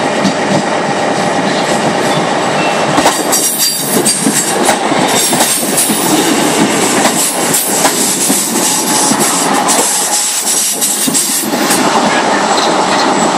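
Class 150 and Class 153 diesel multiple units passing close by on a curve as they run into a station: wheels squealing and clicking over the rail joints. The sound is loudest from about three seconds in, as the carriages go past, and eases near the end.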